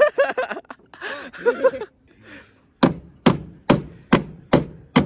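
A person's voice for the first two seconds, then six sharp metal-bodywork blows about two a second: a hammer banging out crash damage in a car's rear body panel by the tail light.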